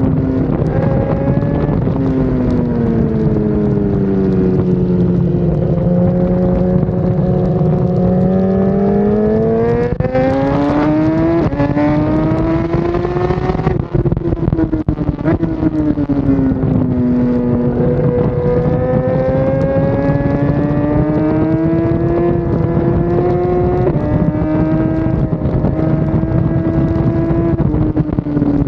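Race motorcycle's inline-four engine, a BMW S 1000 RR, under way on track: the revs fall and climb again several times as it brakes and accelerates through corners, with sudden pitch steps at gear changes about 11 and 24 seconds in. Wind rush runs under the engine throughout.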